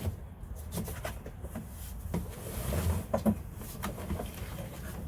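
Parts of a snow pusher kit being handled: a few light knocks and clicks at uneven intervals over a steady low rumble.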